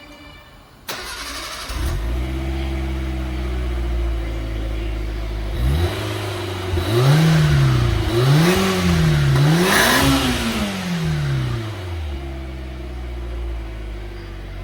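Mitsubishi Pajero Mini's H58A 660 cc four-cylinder twin-cam engine, heard through an aftermarket Ralliart rear muffler. It idles steadily, is blipped three times so the exhaust note rises and falls, then settles back to idle.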